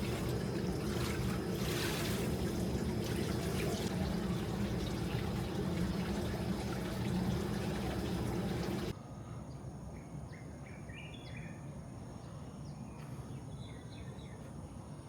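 Steady rush of running water, cutting off abruptly about nine seconds in to quieter outdoor ambience with birds chirping and a high, steady whine.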